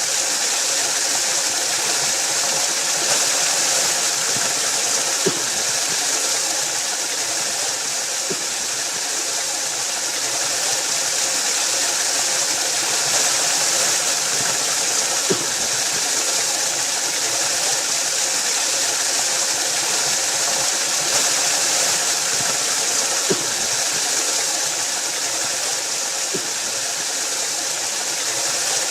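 Waterfall: a steady, even rush of falling water, with a few faint short knocks scattered through it.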